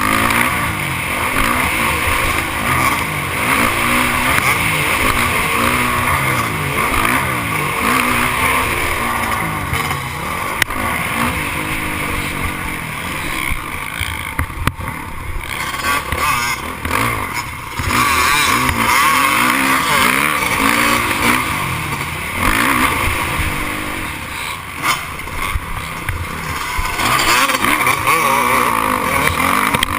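Several motocross dirt bikes racing, their engines revving up and falling back through the gears in overlapping rises and falls of pitch.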